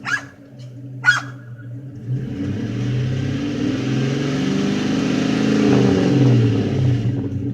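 A 2006 Chevrolet Silverado's 5.3-litre V8 runs, then is revved up from about two seconds in and eases back down near the end. A dog yips twice at the start.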